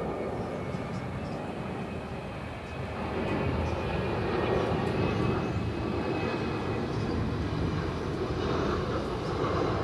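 Airbus A330-941 jet airliner with Rolls-Royce Trent 7000 turbofan engines running, a steady jet rumble that grows louder about three seconds in and then holds.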